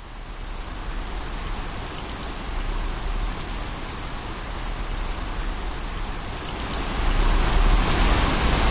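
Heavy rain splashing onto a wet surface, a dense steady patter of drops. It fades in at the start, swells louder about seven seconds in, then stops abruptly.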